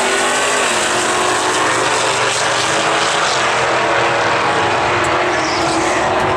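Two Camaro drag cars' engines running loud at high, steady revs side by side on the strip.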